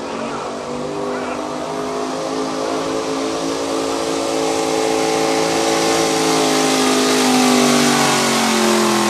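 Engine of a street-class 4x4 pickup truck held at full throttle while pulling a weighted sled, growing steadily louder over several seconds, its note sagging slightly near the end.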